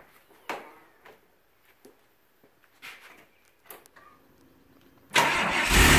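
A few faint clicks and knocks, then about five seconds in the DeLorean DMC-12's PRV V6 engine is cranked and fires up from cold, settling into a steady low running sound.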